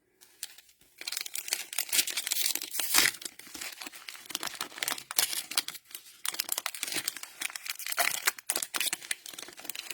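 A plastic cello pack of Panini Mosaic football cards being torn open and handled: a dense run of plastic crackling and crinkling that starts about a second in.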